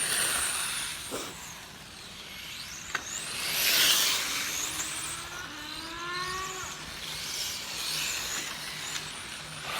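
1/10-scale R/C touring cars racing, their motors whining high and rising and falling in pitch as they speed up, slow and pass. The sound swells loudest about four seconds in as a car goes by, and a lower rising whine follows.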